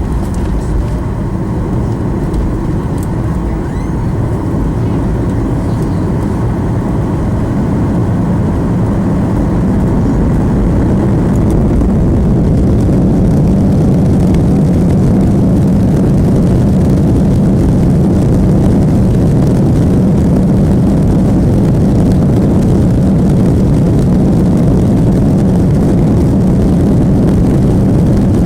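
Airliner engines heard from inside the passenger cabin: a loud, steady rumble that builds over the first ten seconds or so and then holds, as the aircraft goes to takeoff power.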